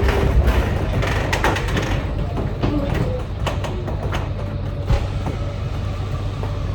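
Pallets being moved out of a semi-trailer: a steady low rumble under repeated clanks, rattles and a few short squeaks.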